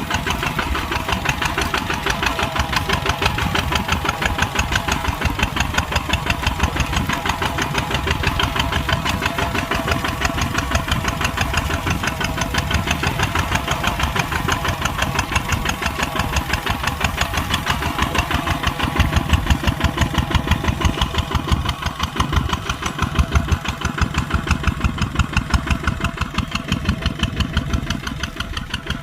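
Kubota tractor's diesel engine running steadily under load while plowing, with a fast, even pulsing knock of its firing strokes.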